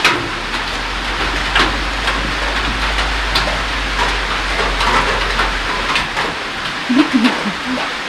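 Steady rain falling, a constant hiss of rain on the hut roof, with a few sharp clicks scattered through it.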